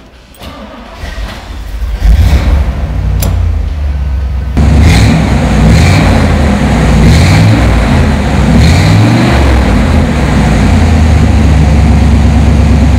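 1972 Corvette's numbers-matching GM 350 V8 being started: the starter cranks and the engine catches about two seconds in. It is revved several times, then settles into a steady idle near the end.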